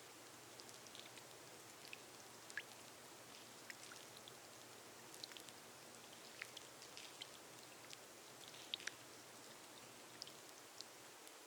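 Faint, steady rain on a glass roof, with scattered single drops ticking sharply over a soft hiss.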